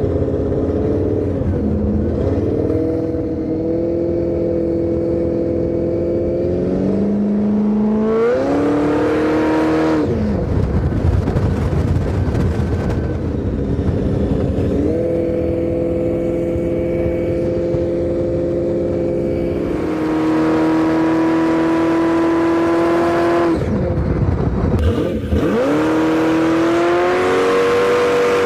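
Motorcycle engine running hard, its pitch gliding up and then holding steady several times over, with rougher, noisier breaks about ten and twenty-five seconds in.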